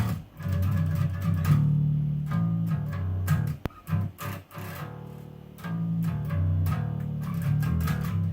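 Fretless five-string electric bass playing a riff of low plucked notes in rhythmic groups, with a few brief pauses between phrases.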